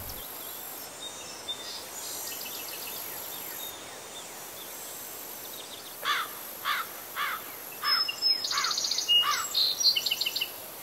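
Outdoor ambience of birds calling: from about six seconds in, a run of short falling chirps about twice a second, with higher trilling chirps joining near the end, over a steady high hiss.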